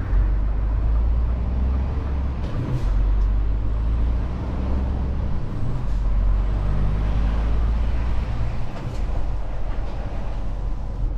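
Lorry engine running as the truck drives, heard from inside the cab: a deep, steady drone that dips briefly about three times.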